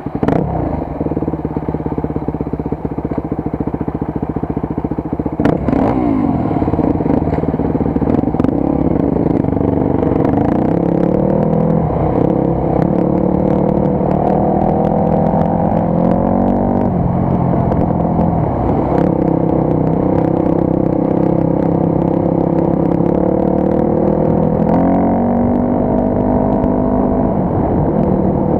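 Motorcycle engine pulling away and riding on, its note rising under throttle and dropping back again and again as it changes gear.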